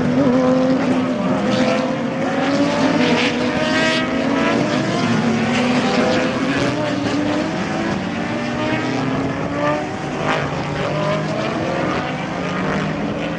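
Sports-prototype race cars' engines going past one after another through a tight hairpin, several at once, their pitch falling as they slow and rising as they accelerate out.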